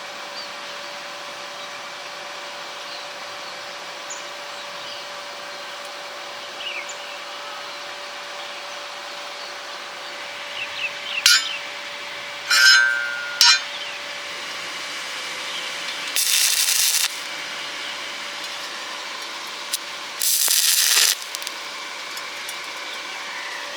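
Steel pieces clinking and knocking, one ringing briefly, over a steady background hum. Then two short bursts of stick-welding arc, each about a second of harsh hissing crackle, as when tack-welding.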